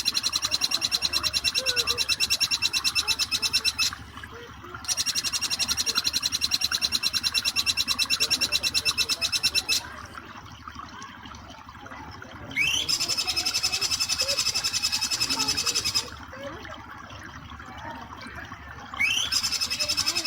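Jing jing petulak song: long, fast, rattling high trills of a few seconds each, given four times with short pauses. The last two open with a quick rising whistle. A faint wash of flowing water runs underneath.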